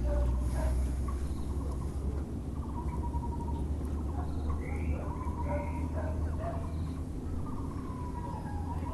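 Several birds calling over a steady low background rumble, among them the repeated pulsed notes of a Muller's barbet (Taiwan barbet) and a few short higher chirps around the middle.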